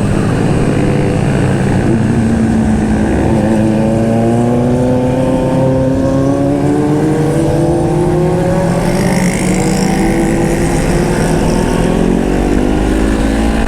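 Honda CBR500R's parallel-twin engine with an aftermarket exhaust, running under way. Its pitch rises steadily over several seconds as it accelerates, then holds.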